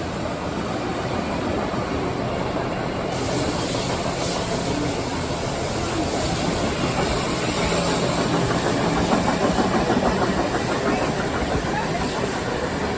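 Steam train on the move, heard from aboard the train hauled by C38 class steam locomotive 3801: a steady running noise of the locomotive and carriages on the rails, with a brighter hiss that swells about three seconds in.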